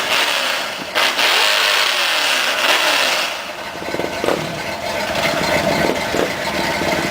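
Car engine revving, its pitch rising and falling, with a sharp crack about a second in.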